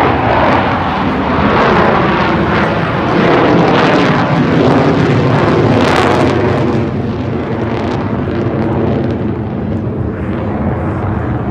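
Blue Angels jet aircraft flying past with a loud jet roar that builds to its peak around the middle and then fades away.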